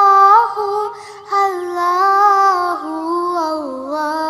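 A high voice singing an unaccompanied Islamic devotional chant, drawing out 'Allahu' in long held notes that bend up and down in pitch.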